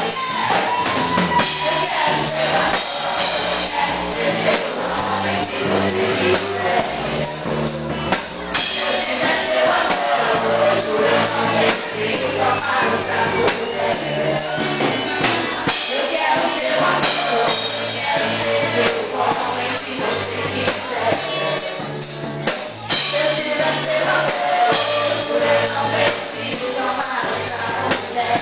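A band playing a song with a singer, over a bass line and drums.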